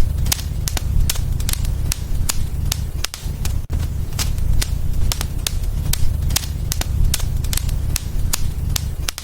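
Wood fire burning in a fireplace, crackling with frequent irregular sharp pops over a steady low rumble; the sound dips briefly about three seconds in.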